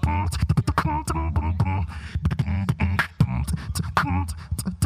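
Solo beatboxing: quick, sharp snare- and hi-hat-like mouth hits in a steady rhythm over a deep sustained vocal bass, with pitched sung notes woven between the hits.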